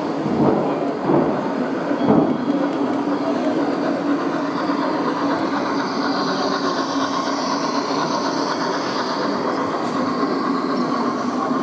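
Steady train running sound, a continuous rumble with a few knocks in the first couple of seconds.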